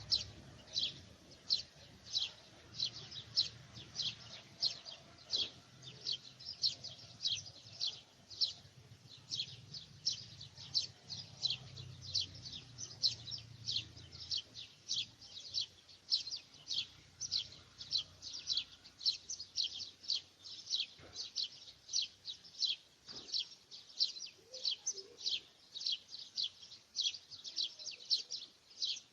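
A bird chirping over and over, about two to three short, high chirps a second in a steady run.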